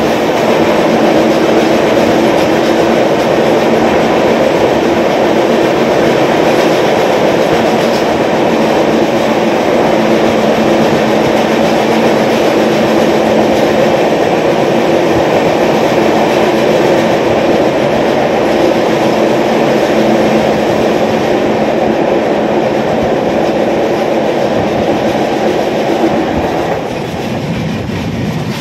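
Passenger train running fast, heard from an open carriage door: a steady, loud wheel-and-rail noise with a droning tone underneath. The noise drops a little about two seconds before the end, as the close walls beside the track give way to open country.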